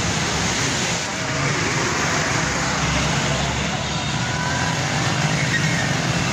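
Heavy rain pouring onto a wet paved street, a steady hiss, mixed with passing road traffic of motorcycles and auto-rickshaws and faint voices.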